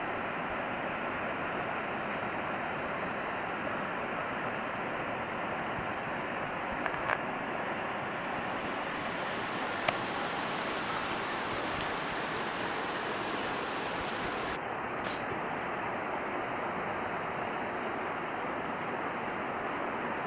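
River water rushing steadily over rocks, with a couple of faint ticks about seven seconds in and a single sharp click about ten seconds in.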